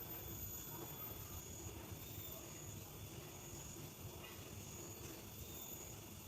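Faint outdoor garden ambience: a low steady rumble like distant traffic, with thin high steady tones that fade in and out every second or so.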